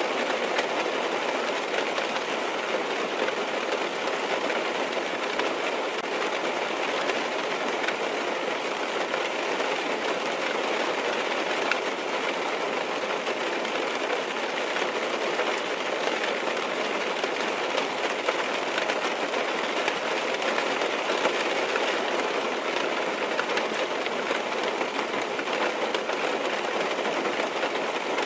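Steady rain falling on a car's roof and glass, heard from inside the cabin: an even hiss of many drops.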